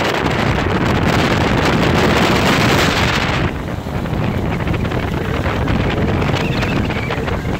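Strong wind buffeting the microphone as a loud, rushing noise, gusting hardest for the first three seconds or so, then easing a little.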